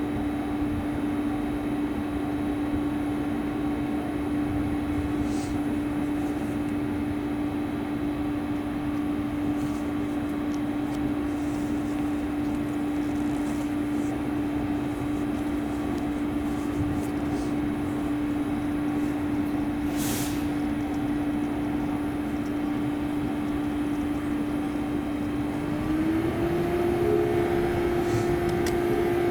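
A passing or standing train's locomotive giving a steady humming tone, which steps up slightly in pitch and gets louder about 26 seconds in. A brief sharp click is heard about two-thirds of the way through.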